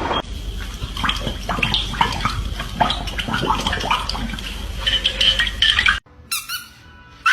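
Quick, irregular clattering and clinking, with a faint steady high tone behind it, cutting off abruptly about six seconds in.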